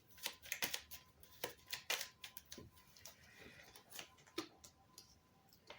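Playing cards being handled and laid out on a table: a scattered run of light clicks and snaps.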